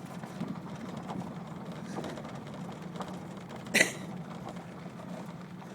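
Pickup truck running slowly, a steady low hum heard from inside the cab. A single short, sharp sound from the truck stands out a little under four seconds in.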